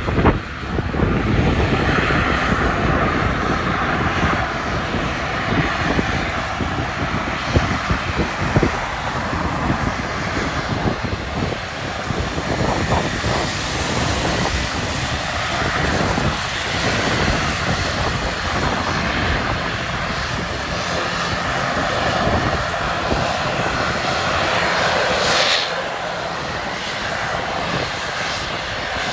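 Uni Air ATR72-600's two turboprop engines running at takeoff power, a loud steady drone of engines and propellers that shifts and eases slightly near the end.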